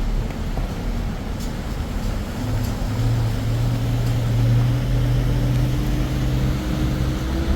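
Motor vehicle engine running under a steady low rumble, its pitch climbing slowly and steadily as it accelerates.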